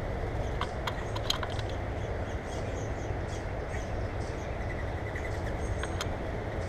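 Small birds chirping with short high calls and clicks, a few brief whistled notes late on, over a steady low background rumble.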